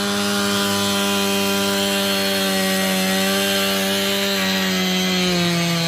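Powerful gas chainsaw running at high revs, cutting into a wet cottonwood log while roughing out (blocking out) a carving. The engine note holds steady, then drops a little in pitch about four and a half seconds in as the saw takes more load in the cut.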